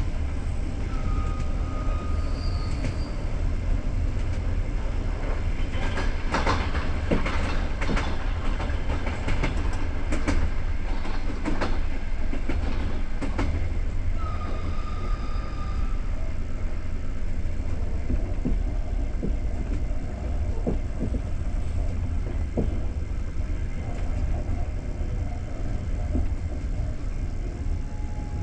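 Passenger train heard from inside a coach: a steady low rumble, with a run of sharp clicks and knocks in the middle. Two short, steady, high whistle-like tones sound, one about a second in and one about fourteen seconds in.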